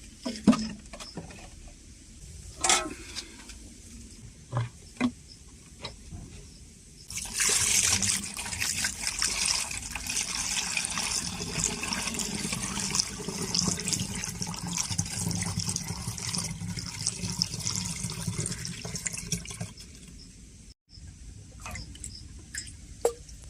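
A few knocks and clicks of handling, then from about seven seconds in, spring water rushing steadily into a container being filled. The rush stops a few seconds before the end.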